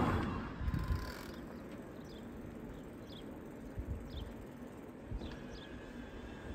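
Wind rumble on the microphone from cycling for the first second. Then a quieter outdoor background with a series of short, high, falling chirps from a small bird, about one every half second to a second.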